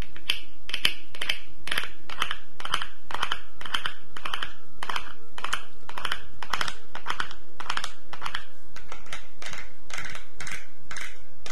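Quick, scratchy strokes close on the microphone, about two to three a second and evenly paced. They are an ASMR trigger standing in for flattening and smoothing a freshly placed tooth filling.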